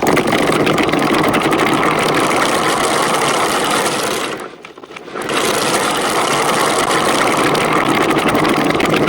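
A batch of marbles rolling and clattering down a four-tier marble-run slope, a dense continuous rattle of many small clicks. It drops away briefly about four and a half seconds in, then picks up again.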